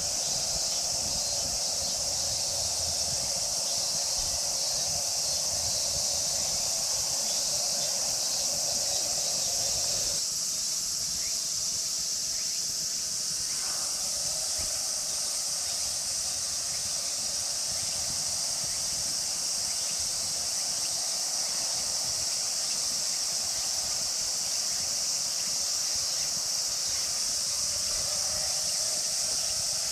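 Steady, high-pitched chorus of summer insects buzzing without pause, with a lower buzzing layer that drops out about ten seconds in and comes back a few seconds later.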